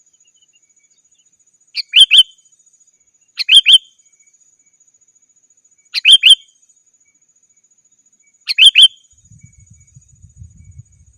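Sooty-headed bulbul (kutilang) calling: four short, loud phrases of two or three clear whistled notes, spaced about two seconds apart. A faint low rumble comes in near the end.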